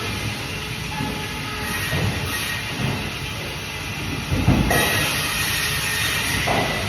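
Bandsaw running while cutting fish: a steady mechanical whir and hiss with a faint high whine, and a low knock about four and a half seconds in.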